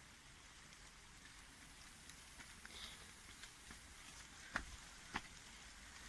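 Near silence: a faint, even outdoor hiss with a few sharp taps, two of them clearer about four and a half and five seconds in.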